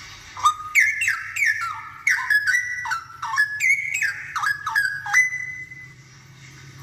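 Straw-headed bulbul singing a loud phrase of whistled notes that slide down and step up and down in pitch, from about half a second in to about five seconds in.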